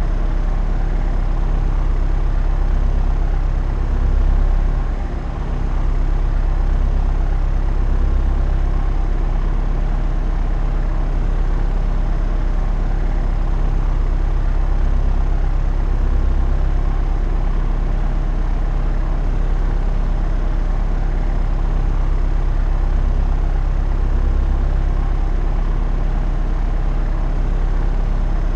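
Propeller aeroplane in flight: a steady, even engine and propeller drone, deep and constant, swelling briefly and dipping about four to five seconds in.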